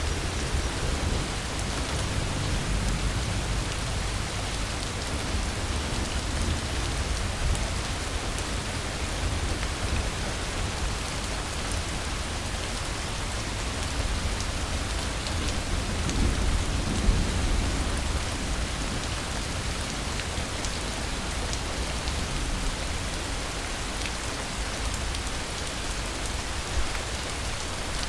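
Steady rain falling, with low rolls of distant thunder swelling about two seconds in and again around sixteen seconds in.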